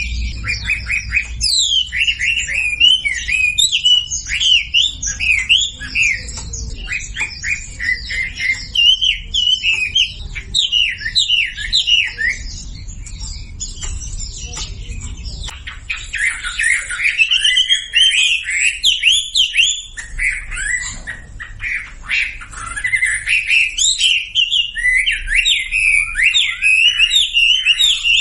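Wambi birdsong: a fast, continuous run of short chirps and whistles sweeping up and down, thinning out briefly in the middle before picking up again. It is a masteran recording, a song played to coax a silent wambi into singing.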